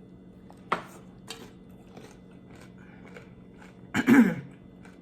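A person chewing a taco close to the microphone, with a sharp crunch and several softer mouth clicks. A short, loud voiced throat sound from the eater comes about four seconds in.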